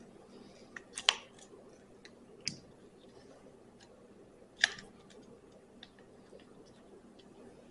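A few sharp clicks and light ticks from handling the ATV's recoil starter parts and cord, the loudest about a second in and again just before the five-second mark.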